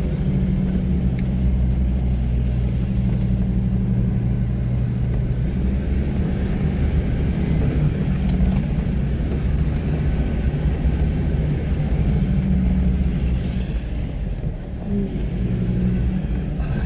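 Motor vehicle engine running with a steady low rumble, its pitch stepping up and down a few times.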